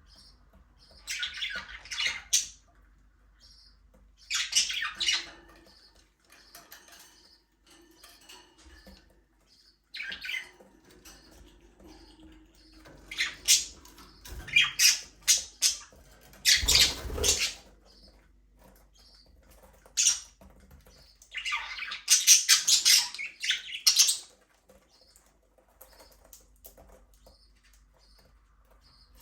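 Budgerigars chirping and squawking in bursts of a second or two, with quieter gaps between.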